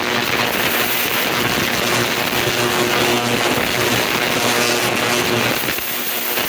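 Ultrasonic parts cleaner running with a carburetor in its heated tank: a steady buzzing hiss with a low hum underneath.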